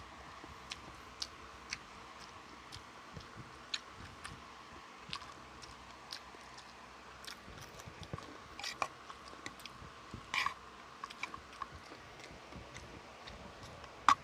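A person eating close to the microphone: chewing and biting, with many scattered small clicks and smacks over a faint steady hum, and one sharp click near the end.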